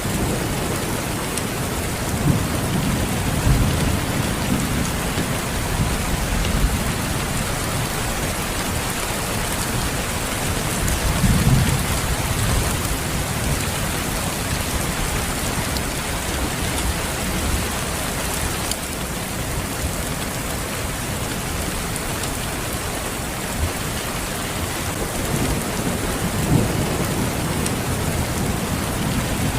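Steady heavy rain falling in a constant hiss, with several low rumbles of distant thunder swelling and fading, around the start, the middle and near the end.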